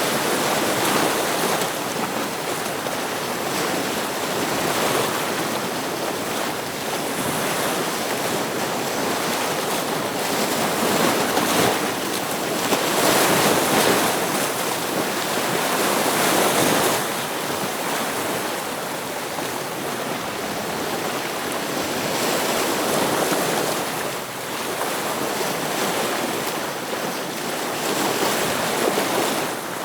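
Ocean waves breaking against rocks: a continuous rush of surf that swells and eases every few seconds.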